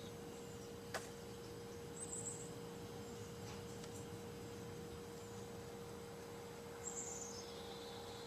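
Short, high bird chirps, once about two seconds in and again near the end, the last one falling in pitch, over a steady faint hum. A single sharp click about a second in.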